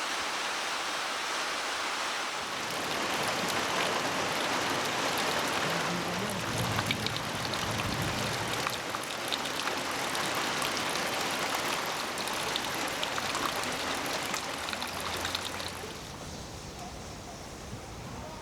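Steady rain falling, a dense hiss of water with scattered small drop ticks; it eases off about 16 seconds in.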